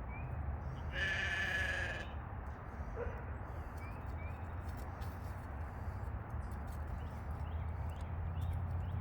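A grazing animal, kept as a living lawnmower, bleats once for about a second, over a steady low rumble.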